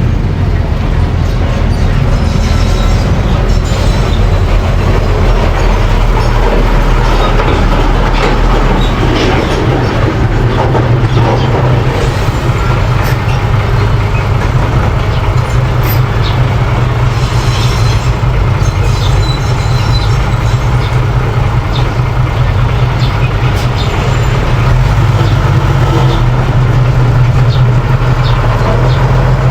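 Mini bulldozer running steadily with a low engine drone, its tracks clattering and squealing over it.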